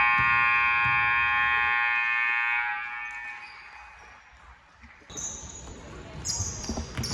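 Gymnasium scoreboard buzzer sounding one long steady blast that stops about three seconds in, its echo dying away in the hall. Quieter scattered short sounds follow from about five seconds in.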